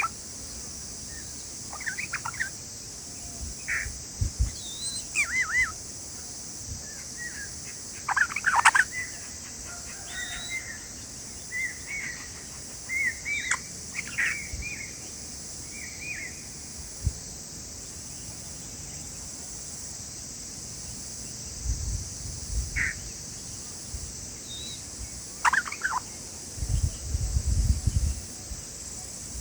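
Bulbul calling at its nest: short chirps and brief warbled notes in scattered bursts, thicker in the first half, over a steady high hiss. A few low rumbles come near the end.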